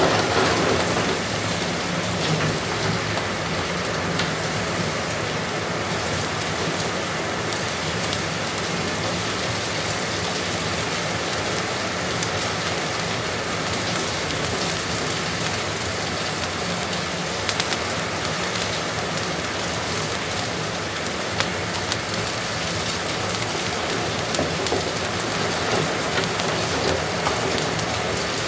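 Heavy rain falling steadily on a roof, an even hiss with scattered sharp ticks and small pops through it.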